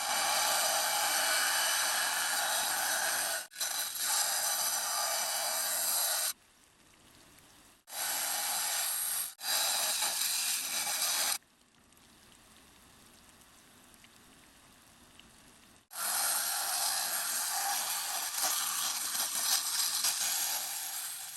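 Rock saw blade cutting through agatized coral: a steady high hiss and grind, heard in several stretches that start and stop abruptly, with two quieter gaps.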